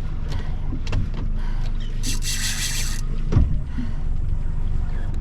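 A boat engine idling with a steady low rumble. About two seconds in a rushing hiss lasts about a second, and a short knock comes soon after.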